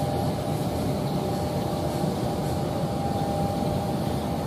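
A train running past, a steady rumble with a constant two-tone hum over it that does not change.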